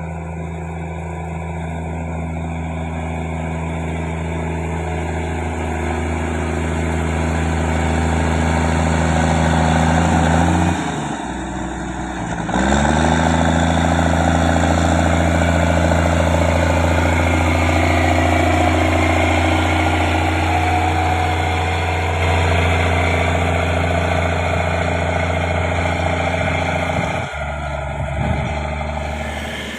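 Heavy road-construction machine's diesel engine running steadily and growing louder as it nears. About eleven seconds in the engine note drops away, then climbs back up a second or so later; it dips and shifts again near the end.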